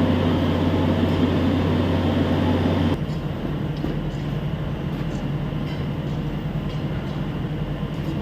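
Railway ballast tamping machine running steadily. About three seconds in, the drone changes abruptly to a lower, quieter hum.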